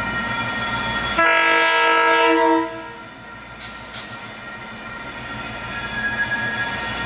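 KiwiRail DC-class diesel-electric locomotive sounding its horn in one loud blast of about a second and a half, a little over a second in, over the rumble of its engine and steady high ringing tones. After the horn come two clicks, then a high squeal of wheels on the tight curve that builds over the last couple of seconds.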